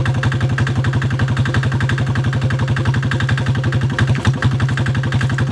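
Small 3 hp diesel engine running steadily with an even, rapid firing beat, shortly after a cold start in sub-freezing weather in which it caught on the second pull.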